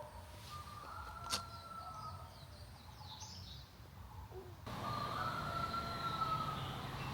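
Steady low rumble of construction machinery working nearby, with a rooster crowing twice and small birds chirping. The sound gets louder suddenly about five seconds in.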